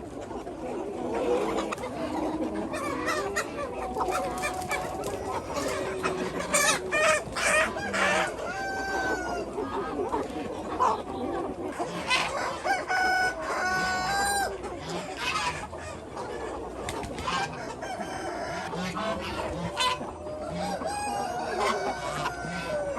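A large flock of free-range chickens clucking and calling, many birds at once, with short sharp calls and some longer held calls overlapping continuously.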